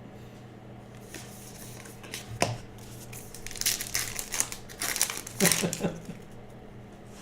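Trading-card pack wrapper crinkling as it is handled and opened, in irregular bursts from about two and a half seconds in, loudest at about five and a half seconds, over a steady low hum.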